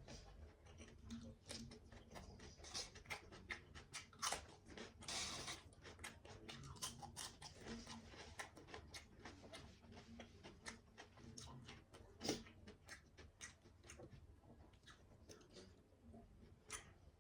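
A person eating: faint, close chewing and mouth smacks with many small irregular clicks, a brief hiss about five seconds in and a sharper click about twelve seconds in.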